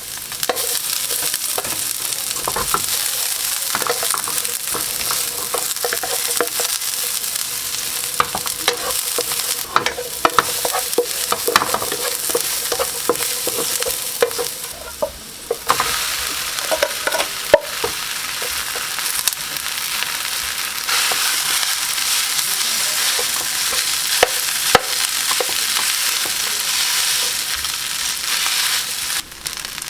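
Food frying in hot oil: a steady sizzle with scattered crackles and pops. It breaks off briefly about halfway through, then carries on.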